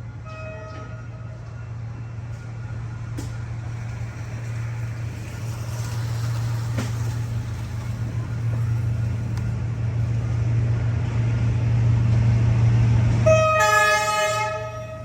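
Diesel train approaching, its low engine drone growing steadily louder. It gives a short horn toot about a second in, then a louder horn blast of about a second and a half near the end.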